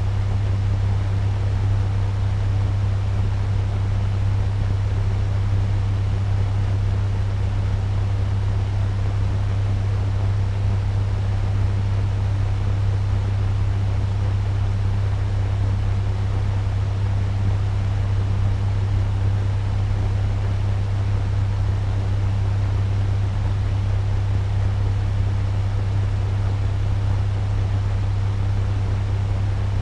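Turbo fan running steadily at medium speed: an even rush of air with a strong, steady low hum underneath.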